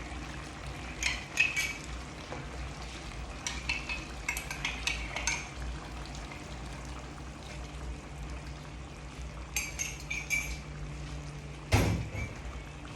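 Kitchen utensils and cookware clinking and clattering in several short flurries, with one louder knock near the end, over a steady low hum.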